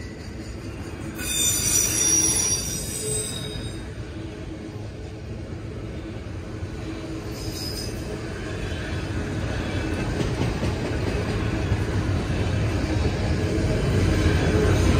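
Freight train's autorack cars rolling past on the rails with a steady rumble. A high wheel squeal rings out about a second in for a second or so, with a brief squeal again about halfway through. The rumble grows louder toward the end.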